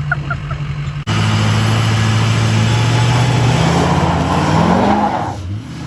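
Diesel pickup truck engine running loudly. A cut about a second in brings a louder engine note that rises slightly near the end and drops back as the throttle eases off.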